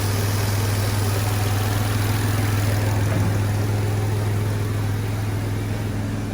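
Chevrolet Epica's 2.5-litre X25D1 straight-six petrol engine idling steadily and evenly, a smooth run that points to a healthy engine.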